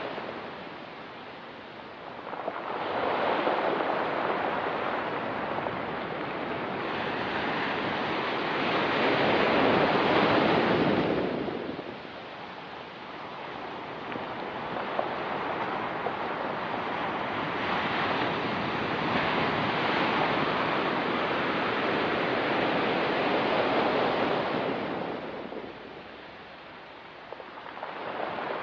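Ocean surf washing onto a rocky shore, in long swells that build over several seconds and fall back. The quieter lulls come about a second in, around twelve seconds in and near the end.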